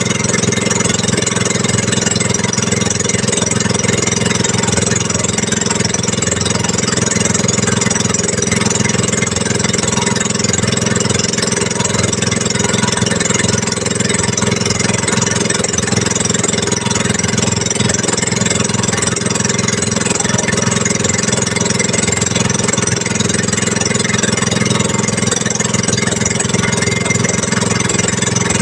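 A small engine running steadily at an even speed, with a constant hiss over it.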